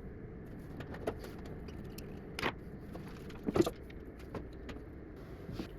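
A few short metallic clinks and taps of hand tools and parts being handled in a car's engine bay, the two loudest about a second apart near the middle.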